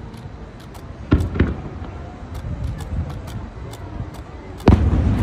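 Fireworks shells bursting: two sharp bangs a quarter-second apart about a second in, then a louder boom near the end followed by a continuing rumble.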